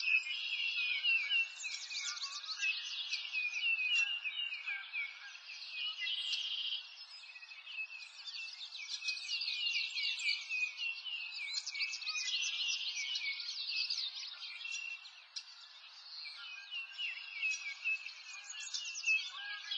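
A dense chorus of birds chirping and twittering, many quick high calls and trills overlapping without a break.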